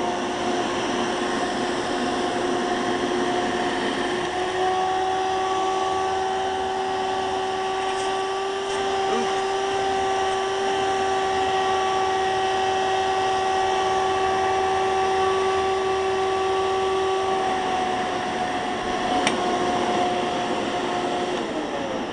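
Hoover commercial vacuum cleaner motor running with a steady whine while the hose is used. About four to five seconds in its pitch steps up as it goes into a high speed mode, which the owner guesses comes from a suction switch. It drops back near the end and starts to wind down.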